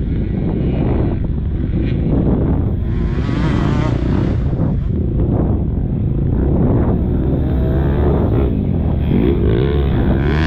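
KTM motocross bike engine running under load. Its pitch rises and falls as the throttle is opened and closed.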